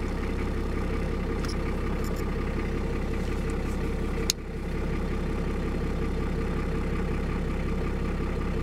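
Vehicle engine idling steadily with a low hum, broken by a single sharp click about four seconds in.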